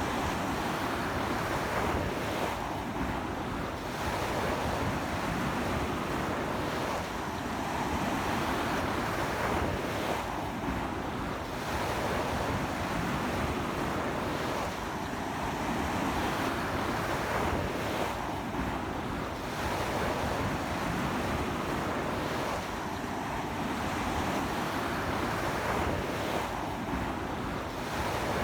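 Strong sea surf washing onto a beach in a stiff wind, a continuous rushing wash that swells and eases every few seconds.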